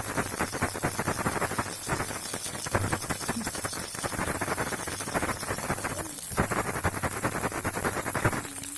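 Baby rattle shaken continuously, its beads making a dense run of rapid clicks, with short breaks about six seconds in and near the end.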